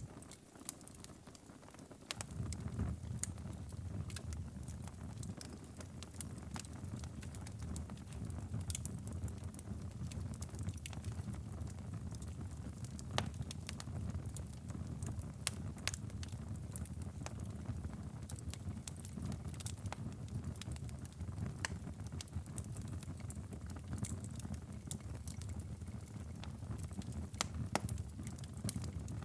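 Wood fire crackling, with irregular sharp pops and snaps, over a steady low rumble of rain and ocean ambience. The low rumble drops away briefly at the start and returns about two seconds in.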